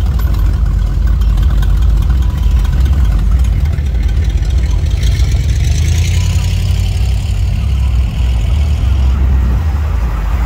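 Low engine rumble of lowrider cars cruising slowly past, among them a Chevrolet El Camino, with a hiss coming in about halfway through.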